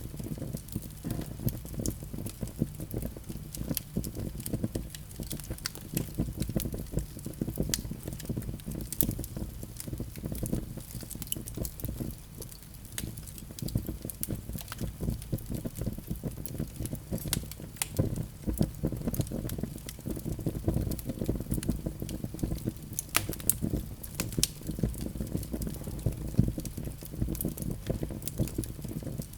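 Wood fire burning in a fireplace, crackling with frequent, irregular sharp pops over a low, steady rumble.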